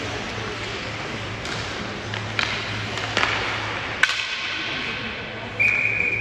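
Ice hockey play: a few sharp stick-and-puck clacks over a steady background hum, then a referee's whistle blows a steady high note near the end.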